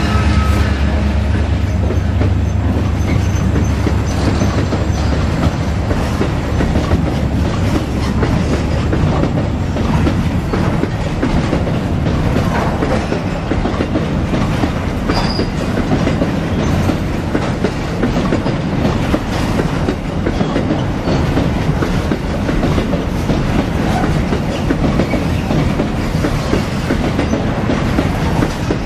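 Freight train wagons rolling past in a steady, loud clatter of wheels clacking over rail joints. The deep drone of the EMD SD40 diesel locomotives dies away in the first second or so.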